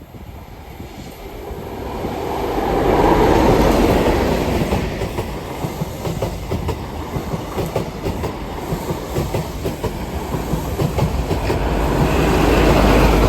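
The Midland Pullman, an HST set with a Class 43 power car at each end, passes close by. Its engine noise swells about three seconds in, a dense clickety-clack of wheels over the rails runs through the middle, and a second loud swell with a deep engine hum comes near the end as the rear power car goes by.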